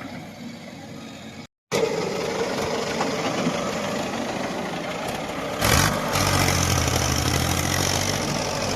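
Heavy diesel machinery working. About six seconds in, an engine comes up suddenly and loudly, then runs on with a deep, steady hum.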